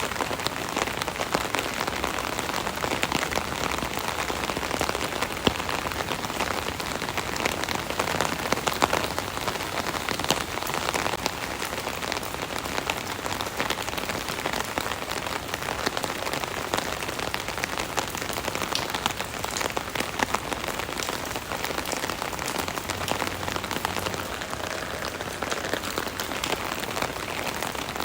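Steady rain pattering on an umbrella overhead, a dense patter of drops with sharper individual hits.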